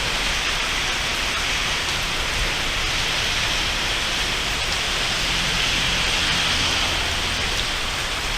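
Rain falling steadily during a thunderstorm: a dense, even hiss of rain that does not let up.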